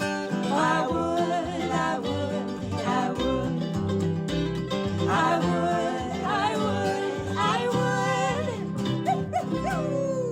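Acoustic band playing live: strummed guitar and plucked strings under a wavering, wordless melody line between sung lines of the song.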